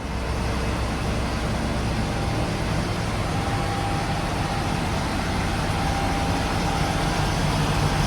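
A mobile crane's engine runs steadily with a low rumble. A faint steady whine joins it about three seconds in.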